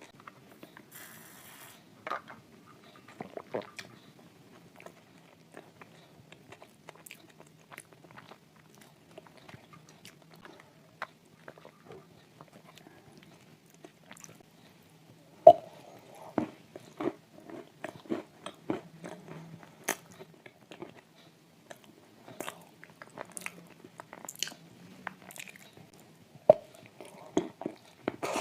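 Close-up crunching and chewing of dry shortbread cookies coated in thick clay paste: a run of crisp crunching bites, the sharpest about halfway through and again near the end, with chewing between them.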